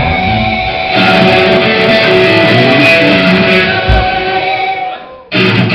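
Live rock band with guitars playing loudly, probably with vocals. The music breaks off sharply near the end and comes straight back in.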